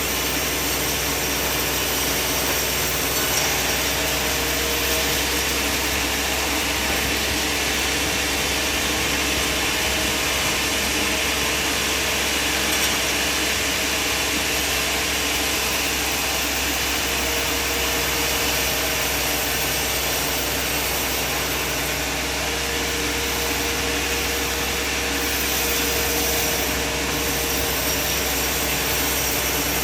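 Sawmill machine running steadily, a continuous mechanical drone with an even level and no clear starts or stops.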